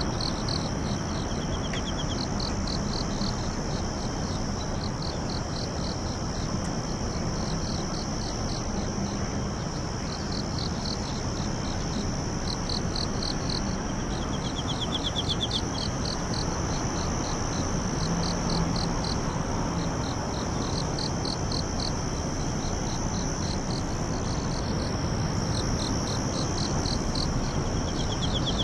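A chorus of singing insects: one steady high trill, with other insects chirping in quick rhythmic runs of a second or two and a few short falling calls. A constant low hiss and rumble sits underneath.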